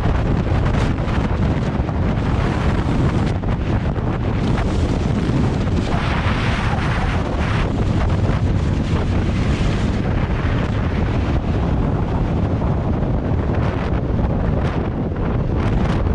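Heavy wind buffeting the microphone of a camera on a moving motorcycle: a steady low rumble of wind noise that covers the engine.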